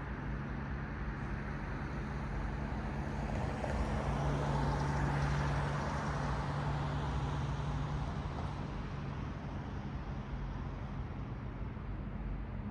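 Road traffic: tyre and engine noise of a car passing, swelling to a peak about five seconds in and then fading, over a steady low hum.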